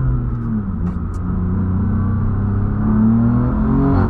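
BMW F80 M3's twin-turbo inline-six engine pulling the car along, its revs dropping briefly near the start, then climbing again about halfway through and holding.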